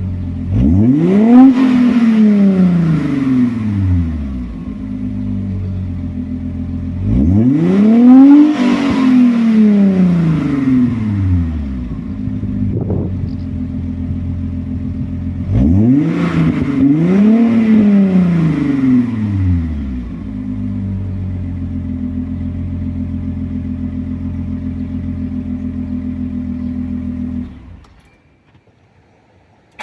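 Audi C4 2.6 V6 engine idling and blipped three times, each rev rising and falling back to idle, heard through an aftermarket exhaust with a Ferroz resonator and Remus muffler. A short click comes between the second and third revs, and the sound cuts off about two seconds before the end.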